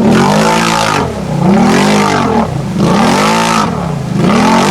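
Off-road vehicle engine revving hard and repeatedly, its pitch climbing and dropping about four times as the throttle is worked through the mud hole.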